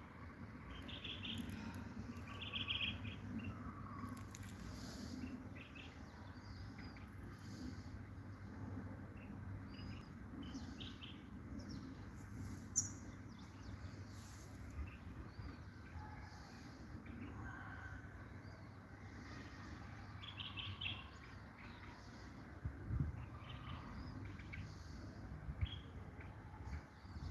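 European goldfinch singing: quick, scattered twittering chirps in short bursts, over a faint low hum.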